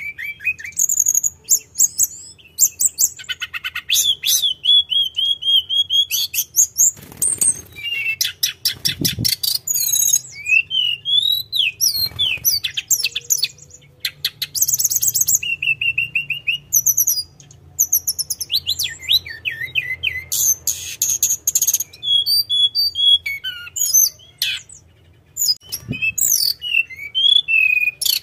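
Tledekan gunung singing a fast, varied song of high whistles, sliding notes and rapid rattling trills, phrase after phrase with only brief pauses.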